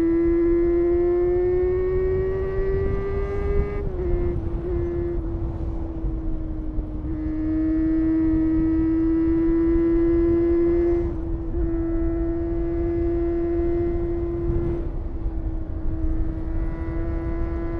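Honda CBR250RR MC22's 249 cc inline-four engine revving high under load while riding, its whine climbing in pitch for about four seconds, then dipping briefly at a gear change. It then holds a steady high-revving note, with two more short dips, over a low rumble of wind noise.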